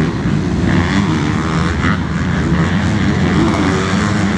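Motocross bike engines running together, a loud, continuous drone whose pitch wavers up and down as the bikes rev.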